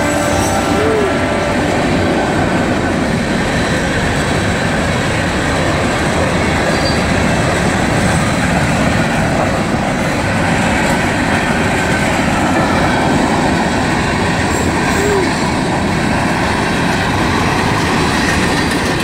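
CSX freight train passing close by, locomotives and then open-top hopper cars, with a steady loud rumble and clatter of wheels on the rails. The tail of a locomotive horn blast ends about a second in. Two brief wheel squeals come, one near the start and one near the end.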